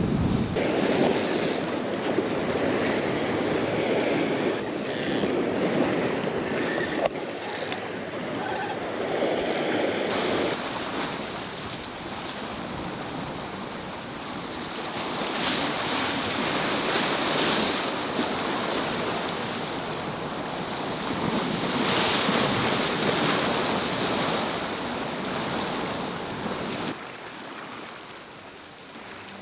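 Sea waves breaking and washing along the shore, a steady rush that swells and eases every few seconds.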